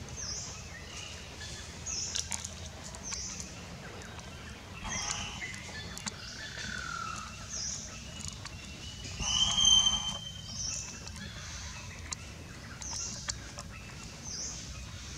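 Birds calling outdoors: a short high call repeats about every second and a half, with a falling call around the middle and a louder whistled note shortly after, over a faint low background hum.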